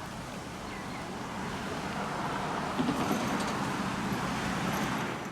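A vehicle engine running steadily, with a low hum and a few faint clicks about three seconds in.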